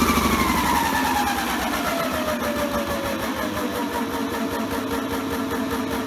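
Small electric motor of a toy washing machine spinning a sudsy load: its whine slides down in pitch over the first few seconds, then settles into a steady lower hum with a fast rhythmic pulse. The motor is struggling slightly against the drag of the suds.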